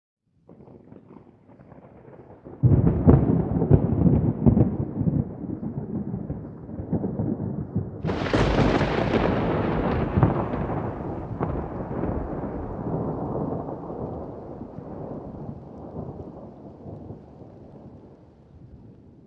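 Thunder: a low rumble builds out of silence, breaks into a loud crack about three seconds in, and a second, sharper crack follows about eight seconds in. The rolling rumble then slowly dies away.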